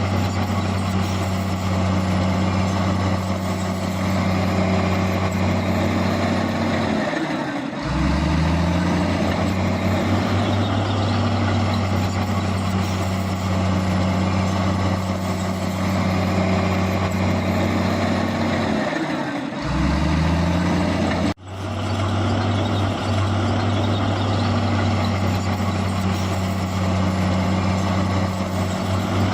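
Heavy diesel engine of earth-moving machinery running under load. Twice, about 7 and 19 seconds in, its pitch falls and then climbs back. About 21 seconds in the sound breaks off for a split second.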